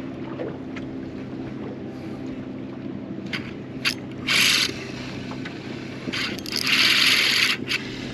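A fishing reel's drag buzzing in two bursts, a short one about four seconds in and a longer one near the end, as a hooked trout pulls line, over a steady low hum.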